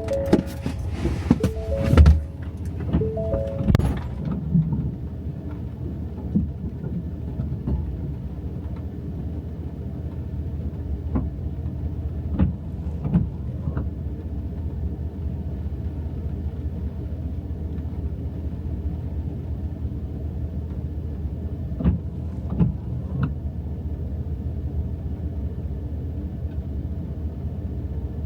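Vehicle engine running steadily with a low drone, after several clunks and knocks in the first few seconds; a few more knocks and rattles come through later.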